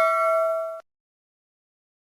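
A bell-like chime ringing on with several steady tones, fading slowly and then cut off abruptly under a second in.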